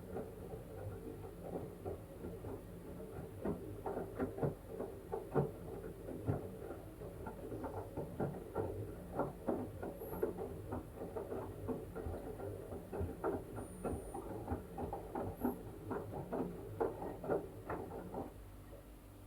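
LG washing machine tumbling a wet blanket in its drum: irregular splashing and sloshing patter over a steady low hum, which stops near the end.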